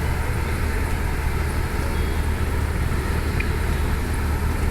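Cessna 172's four-cylinder piston engine and propeller droning steadily, heard from inside the cockpit over a constant rush of noise.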